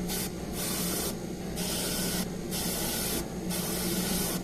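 Paint spraying onto model car wheels in about five short hissing bursts, with a steady low hum underneath.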